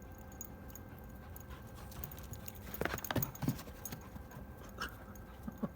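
A deer's hooves clopping and knocking on hard ground: a quick cluster of hoof strikes about three seconds in, then a few more near the end.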